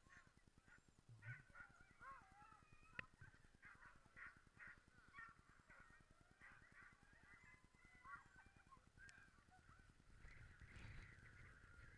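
A team of sled dogs yelping and whining in a faint, overlapping chorus of short, high calls with bending pitch, which grows busier near the end. This is the excited noise of a harnessed team straining to run at the start.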